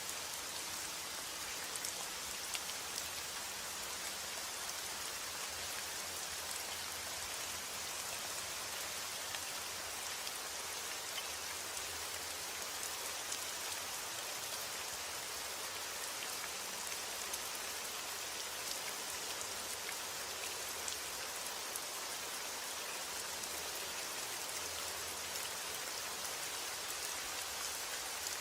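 Steady rain falling, a dense even patter with fine individual drops ticking on a hard surface.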